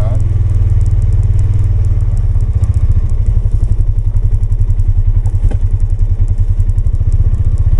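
Polaris 570's single-cylinder engine running at low speed, with an uneven, rapid pulsing from about two and a half seconds in until near the end.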